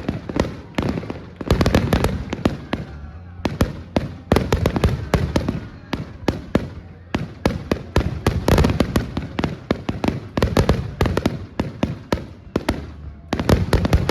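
Fireworks going off in rapid succession: a dense run of sharp bangs and crackles, with a few brief lulls.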